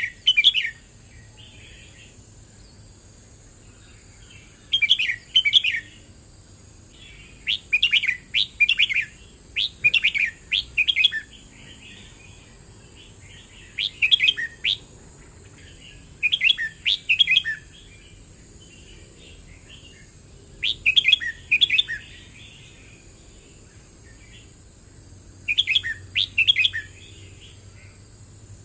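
Red-whiskered bulbul singing: short, quick phrases of bright chirping notes, each about a second long, repeated every two to four seconds, about eight phrases in all.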